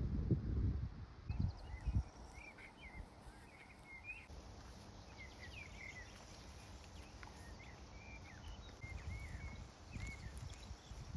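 Small birds chirping in short quick notes over a quiet steady hiss, after a couple of gusts of wind on the microphone at the start.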